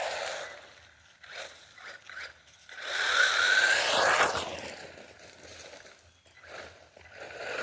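Electric RC buggy driving past, its motor whining and tyres scraping over the ground, loudest about three to four seconds in, with shorter surges as it comes and goes.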